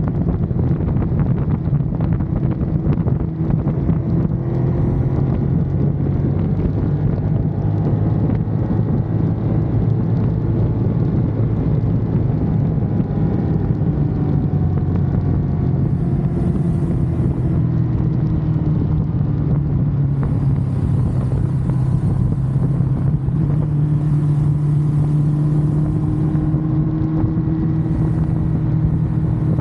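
Ducati Monster's V-twin engine running under way at a fairly steady speed, its pitch drifting slowly up and down, with wind rushing over the microphone.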